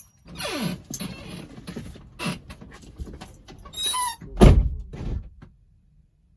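Clicks, rustles and handling noises inside a car as someone fumbles with the ignition key, with one heavy low thump about four and a half seconds in. The sounds cut off about a second later.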